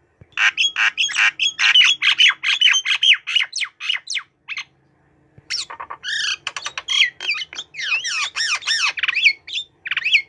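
White-rumped shama singing a fast run of varied chattering notes and whistles. It pauses for about a second midway, then goes on with whistled phrases that slide up and down in pitch.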